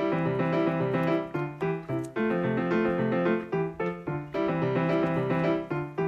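Background piano music: a keyboard playing a bouncy run of notes in a steady rhythm.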